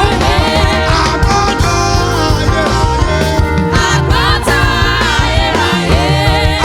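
Live gospel worship band playing an upbeat groove with strong bass and drums, with a voice singing over it.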